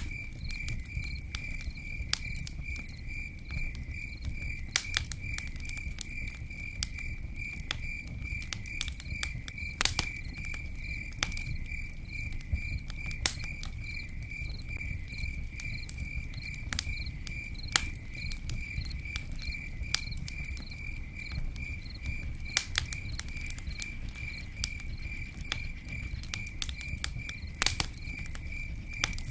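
Campfire crackling, with sharp pops scattered irregularly through it and a low rumble underneath, while a cricket chirps in a steady, unbroken pulsing trill.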